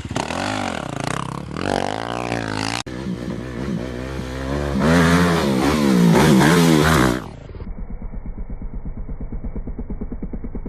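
Motorcycle engines revving, the pitch rising and falling, across a few abruptly cut clips. The loudest revving comes in the middle. Near the end, a lower-quality recording has an engine running slowly with a steady putter.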